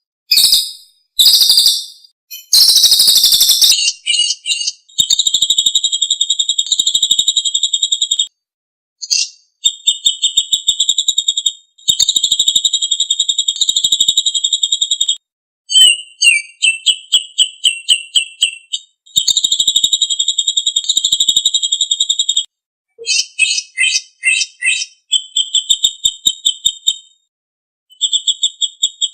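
Songbird singing long, high-pitched rapid trills and rattles, each lasting several seconds, with short silent breaks between them.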